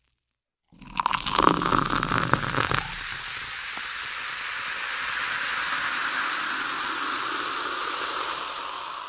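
Stock sound effect of rushing water: about a second in, a crackly, splashy start with sharp clicks, which settles into a steady rushing hiss.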